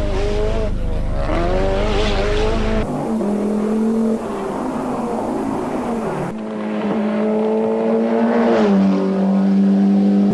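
Rally car engines at full throttle, in three short clips cut together. The revs climb and drop sharply through gear changes, with a steadier held note in the middle clip.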